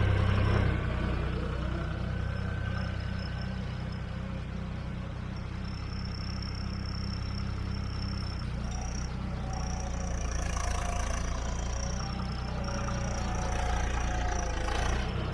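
John Deere 5310 tractor's turbocharged diesel engine running steadily, with a thin high turbo whistle above the engine's low drone. The engine gets a little quieter about a second in and builds again toward the end.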